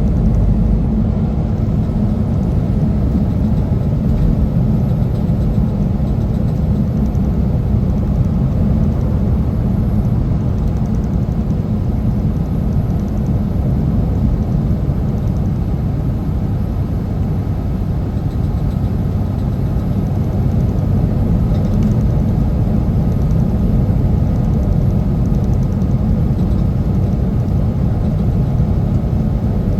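Steady low rumble of a semi truck under way: engine and road noise, with no change in pitch or level.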